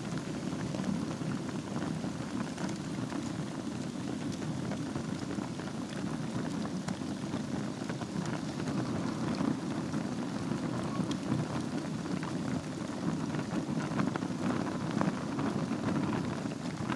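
Wood fire burning in a fireplace: a steady low rush of flame with many scattered small crackles and pops.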